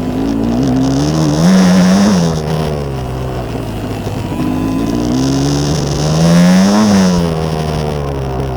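Enduro motorcycle engine being ridden, the throttle opened twice: the engine note climbs to a peak and drops back about two seconds in, and again about seven seconds in.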